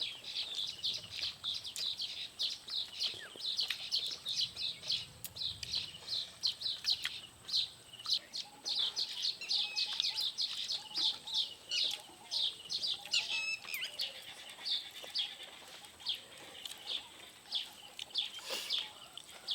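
Birds chirping, a steady run of short, high, quick chirps several times a second.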